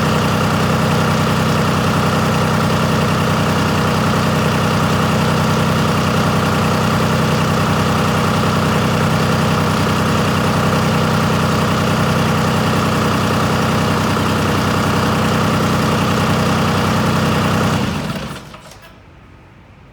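John Deere 4219DF four-cylinder diesel engine idling steadily, then shut off about 18 seconds in, its sound dying away over about a second.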